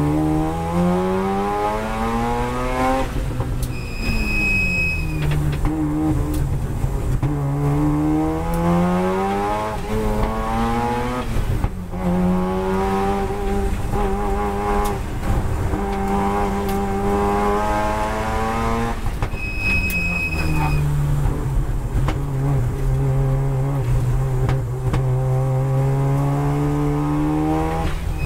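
Race-prepared Mazda RX-7 FD3S's turbocharged rotary engine, heard from inside the cabin, climbing in pitch under acceleration and falling twice as the car slows. It holds a long, fairly steady high note in the middle. Each time the pitch falls, a short high squeal sounds for about a second.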